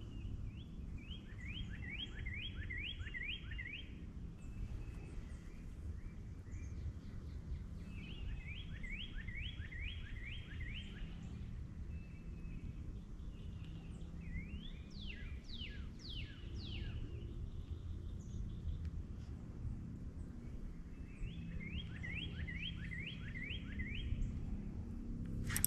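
Songbirds singing. One repeats a short phrase of about seven quick falling notes three times, and a few steeper falling notes come in near the middle, all over a low steady outdoor rumble.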